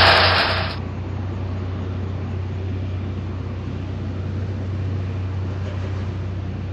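Harvesting machinery engine running with a steady low drone. A louder rushing noise cuts off abruptly under a second in.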